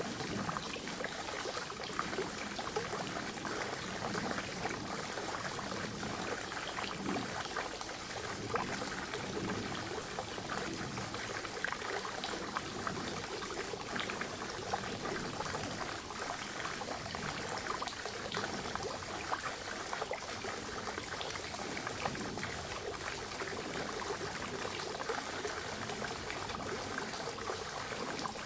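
Water from a forest spring running steadily into a pond, with many small splashes.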